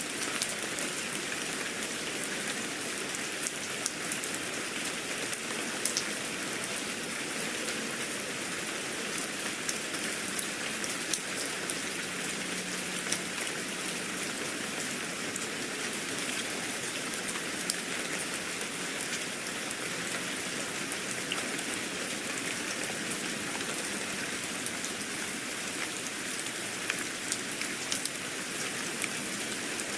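Steady rain falling, with many fine ticks of individual drops.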